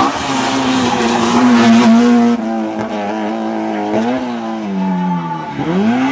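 Rally car engine at full throttle, holding a high steady pitch for about two seconds, then cut off abruptly; after that the revs fall and rise several times as the car lifts off, downshifts and accelerates through a corner.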